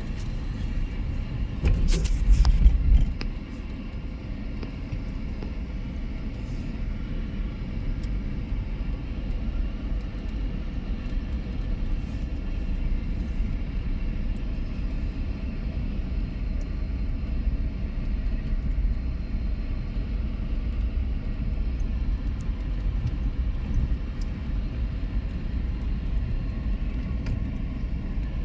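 Steady low rumble of a vehicle running, with a louder bump and a sharp knock about two seconds in.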